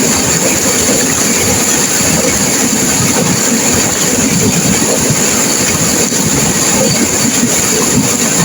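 Turbulent river water rushing and crashing over rocks in a loud, steady wash of noise.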